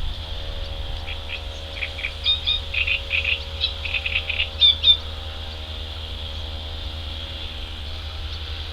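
Mallard ducklings peeping: a quick run of short, high peeps from about a second in to about five seconds in, over a steady low hum.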